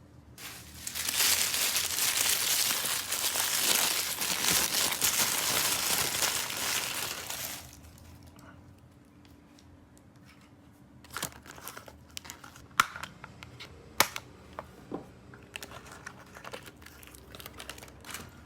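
Plastic toy packaging crinkling and tearing for about seven seconds during an unboxing, then a run of scattered light clicks and taps.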